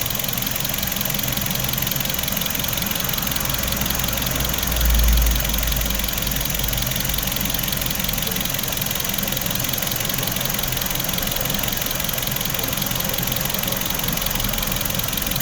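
Hyundai HB20's 1.6 four-cylinder engine idling steadily during an alternator charging-load test, with a brief deeper swell about five seconds in. The charging system tested OK.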